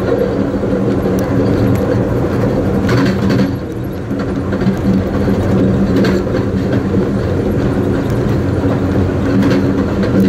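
Steady rumble of an Amtrak Coast Starlight passenger car rolling along the track, heard from inside the rear car, with a low hum and a few brief clicks and rattles.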